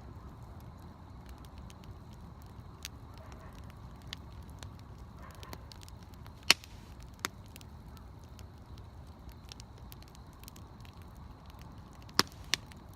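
Bonfire burning steadily, with a constant crackle of small snaps. Sharp pops ring out about halfway through and twice more near the end.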